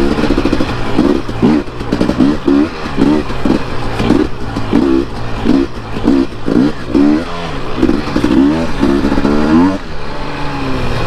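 Dirt bike engine revving up and down over and over, the throttle opened and closed in quick succession as the bike is ridden along a trail.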